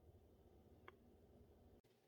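Near silence: faint room tone with a single soft click just under a second in; the low background hum cuts off abruptly near the end.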